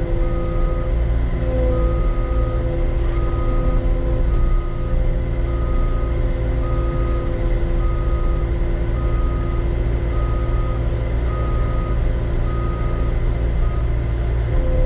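Heavy diesel equipment engine running steadily while its backup alarm beeps about once a second.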